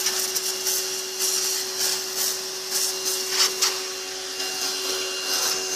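Pressure washer running with a steady motor hum, its spray hissing into a car's wheel well, with a few brief louder surges.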